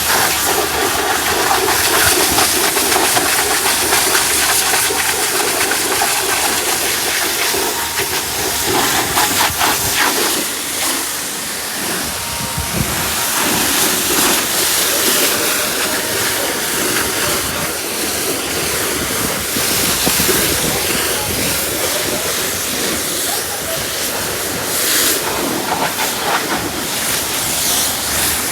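Pressure-washer water jet spraying with a steady hiss, swelling and easing as the spray moves.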